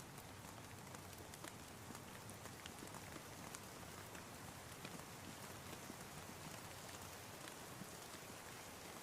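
Steady rain with scattered drops ticking on a surface, a soft, even patter.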